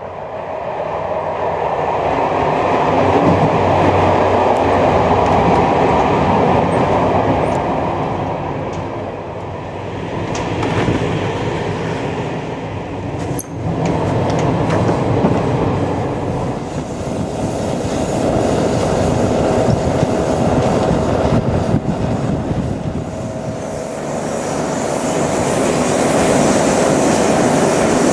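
Passenger train running on the rails, heard from aboard a carriage: a steady rumble and rattle of the wheels on the track, briefly broken about halfway through. In the second half a thin steady squeal joins the rumble.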